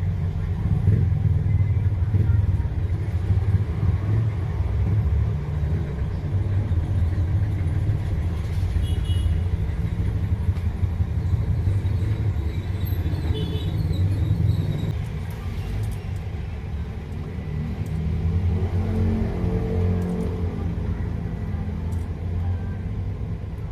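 Steady low mechanical rumble, like a running engine or motor, with its pitch rising and falling briefly about eighteen seconds in.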